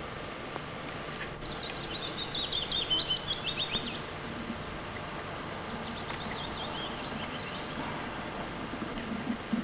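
A songbird singing two quick phrases of high, rapidly sliding chirps, the first the louder, over a steady outdoor background hiss.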